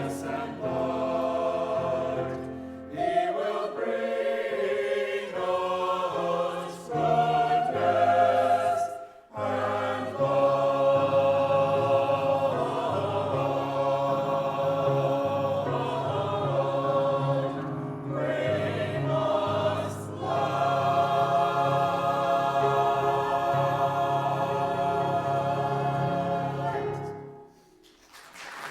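Church choir singing a piece in several sustained phrases; the singing ends shortly before the end.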